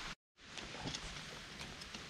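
Steady rain, cut out completely for an instant just after the start, then returning with scattered light ticks and knocks.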